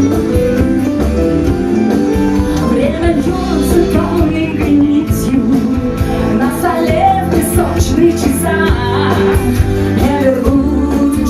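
Live rock band playing a song: electric guitars and bass over a steady drum beat.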